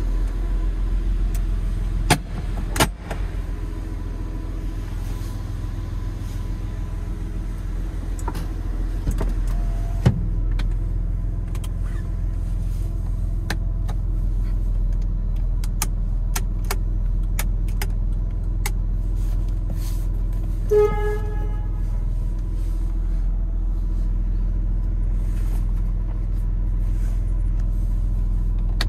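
Porsche Boxster 2.7 flat-six engine idling steadily, heard from inside the cabin, with a few sharp clicks early on and a brief pitched beep about two-thirds of the way through.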